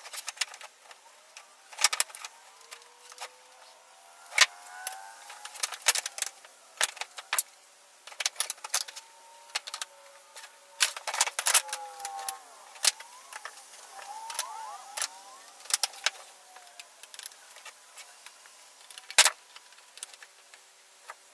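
Clicks and knocks of small wooden box pieces and tools being handled on a workbench, scattered irregularly, with one sharper bang about 19 seconds in. Thin squeaky whines slide up and down between the knocks.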